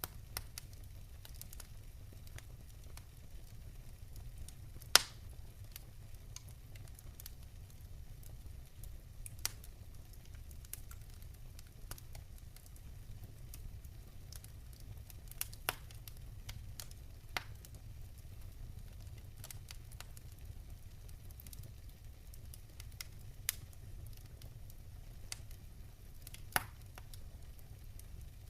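Wood fire burning in a fireplace: a steady low rumble with scattered sharp crackles and pops, the loudest pop about five seconds in and another strong one near the end.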